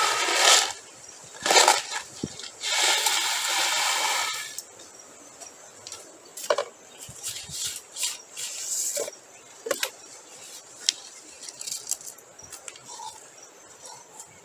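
Crushed stone being poured and spread by hand, rattling in three pours in the first four and a half seconds, the longest about two seconds, then scattered clicks as single stones are dropped and settled.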